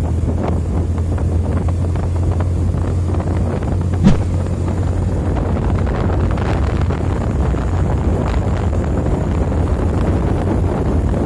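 Strong wind buffeting the microphone: a steady, loud rumble and rush, with one sudden loud thump about four seconds in.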